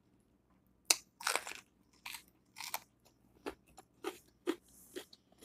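A bite into a raw mini sweet pepper, a crisp snap about a second in, followed by crunchy chewing with a crunch about every half second.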